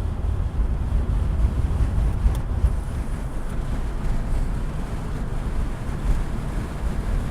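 Wind buffeting the microphone: a gusty, uneven low rumble with no clear pitch.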